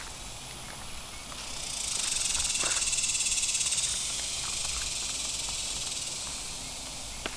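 A shrill, high insect buzz swells up about a second and a half in, holds loudest for a couple of seconds with a fine pulsing, then slowly fades, over light scattered clicks of steps through brush.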